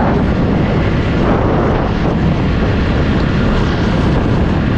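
Motorcycle riding at road speed: wind rushing over the action camera's microphone mixed with the engine running, a loud, steady roar.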